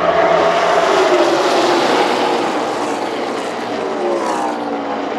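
A pack of NASCAR Xfinity Series stock cars with V8 engines running past at racing speed: a dense engine roar, loudest about two seconds in, whose pitch drops as the cars go by.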